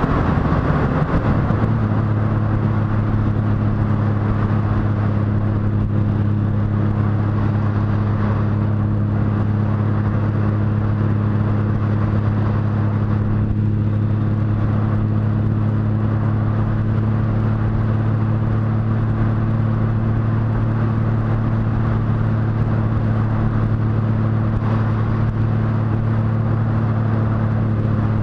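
Motorcycle engine under way, changing speed briefly near the start and then holding a steady pitch at constant cruising revs, over a rush of wind and road noise.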